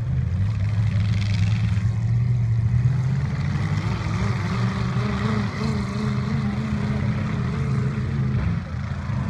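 Derby trucks' engines running, a loud steady engine drone with some revving.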